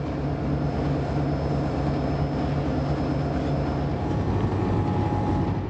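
Push-pull commuter train running along the line: a steady rumble with a low, even locomotive drone underneath.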